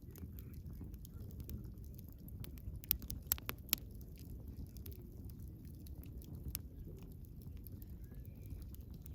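Wood campfire burning: a low steady rumble of flames with scattered sharp crackles and snaps, and a few louder pops about three to four seconds in.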